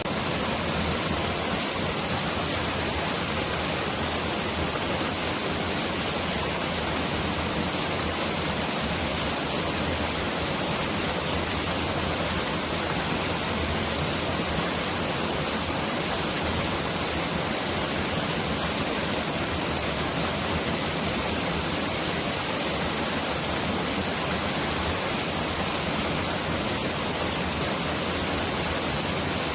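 Mountain valley stream rushing over rocks: a dense, steady rush of water with no breaks, close enough to sound like heavy rain.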